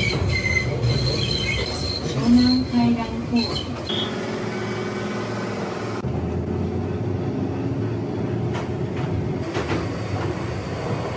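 Enoshima Electric Railway (Enoden) commuter train running, heard from inside the car: a steady rumble of wheels on track. High wheel squeal cuts in and out during the first few seconds.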